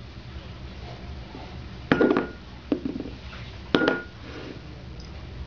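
Three short clatters of a hard object, about a second apart; the first and last each carry a brief ringing tone.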